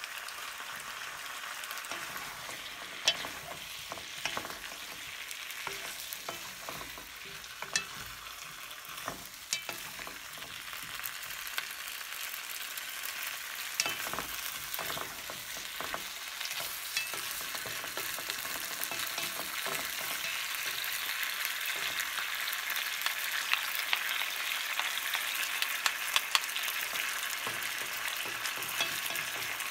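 Sliced potatoes and vegetables sizzling in oil in a frying pan while being stir-fried with two wooden spatulas, with scattered sharp clacks of the wood against the pan. The sizzle slowly grows louder.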